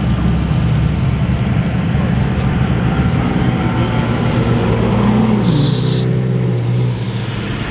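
A car engine running at idle, steady with a low hum, with voices in the background.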